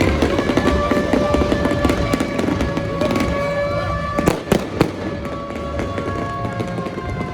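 Fireworks crackling and popping, with two louder bangs about halfway through. Over them runs a long, steady, horn-like tone.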